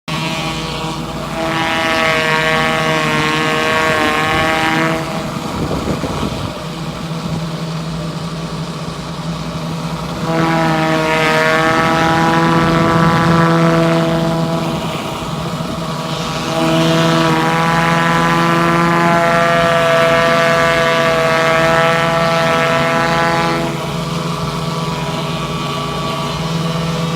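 Pressure washer engine running steadily at a constant pitch. Three times it gets louder for several seconds with a hissing water spray from the surface cleaner on concrete.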